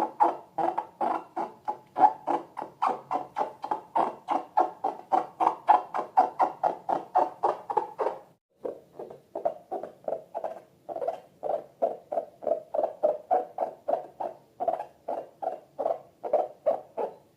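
Slime being worked, squelching in a quick, even rhythm of about four squishes a second, with a short break a little past the middle before the rhythm resumes.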